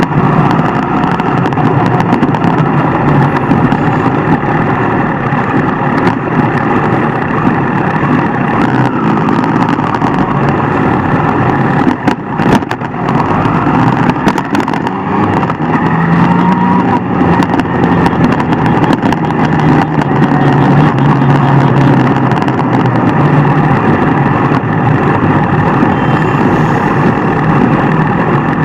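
Motorcycle running at road speed: a loud, steady engine and road noise, with a brief dip about twelve seconds in.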